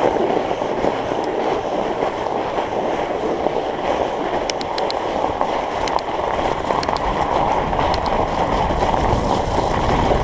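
Steady rushing noise of a Surly Moonlander fat bike being ridden on a snowy trail: wind on the microphone and fat tyres rolling over snow, with a few light clicks around the middle.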